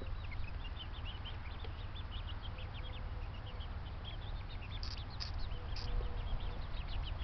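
A flock of backyard birds chirping and peeping: many short, rapid, high calls overlap throughout, with a few louder calls about five seconds in, over a steady low rumble.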